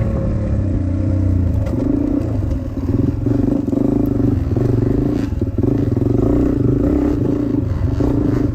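Dirt bike engine riding a trail, the throttle opening and closing so the revs rise and drop about every second.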